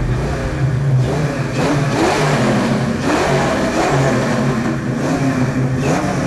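Ford Mustang engine revved hard again and again, about once a second, through an aftermarket BBK exhaust pipe and 2.5-inch mufflers. It is loud, with the pitch climbing on each rev.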